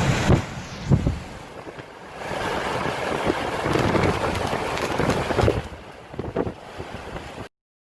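Storm wind gusting hard and buffeting the microphone, swelling and easing, with a few heavy thumps about a second in; the sound cuts off abruptly near the end.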